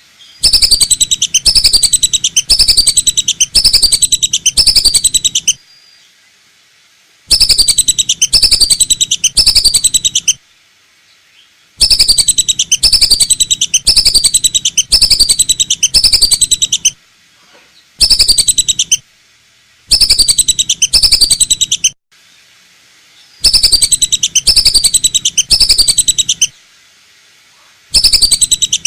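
Lesser whistling duck calls played as a hunter's lure recording: loud bouts of quick, repeated whistled notes, each dropping in pitch, lasting a few seconds and separated by short pauses.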